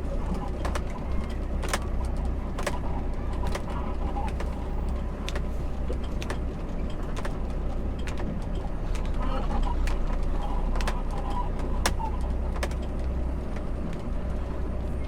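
A heavy truck's engine running with a steady low drone, with scattered sharp clicks and rattles throughout and a faint murmur of voices now and then.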